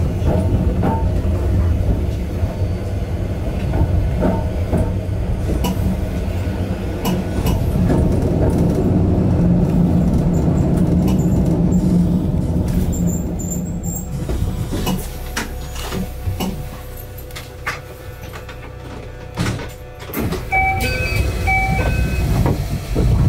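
Yokkaichi Asunarou Railway 260 series narrow-gauge electric train running and braking into a station, with a steady low rumble and wheel clicks, coming to a stop about 14 seconds in. It then stands quietly, with scattered clicks and a few short electronic beeps near the end.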